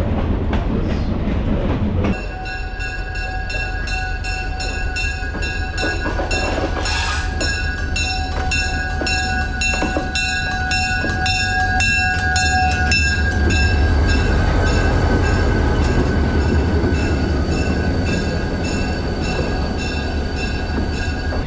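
Passenger train running on the rails: a steady low rumble with regular clicks from the wheels passing over rail joints. From about two seconds in, steady high-pitched tones sound over it and carry on.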